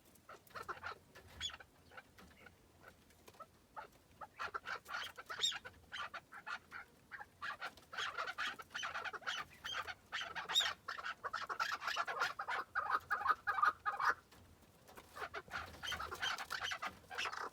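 Chukar partridge calling: rapid runs of short clucking notes, sparse at first, then thickening into a dense fast series. It breaks off briefly about three-quarters of the way through, then resumes.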